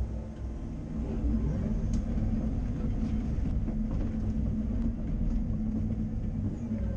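Caterpillar 330 Next Generation excavator's diesel engine running steadily as the machine works, with a faint sharp click about two seconds in.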